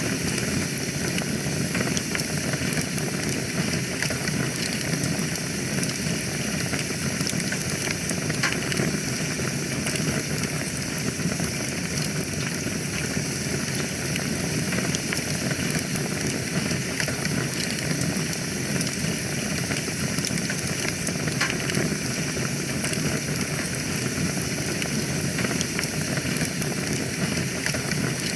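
Wood fire burning steadily in a fireplace, with a low, even rush of flames and scattered small crackles and pops.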